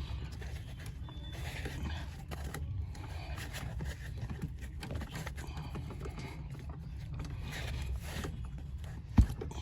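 Rubber pedal insert being worked onto a car's metal accelerator pedal: faint intermittent rubbing and handling noises over a steady low hum, with one sharp knock near the end.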